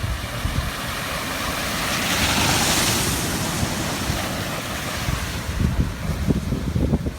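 Wind rushing over the microphone, a hissing rush over a low buffeting rumble that swells about two to three seconds in and eases off, with a few low knocks near the end.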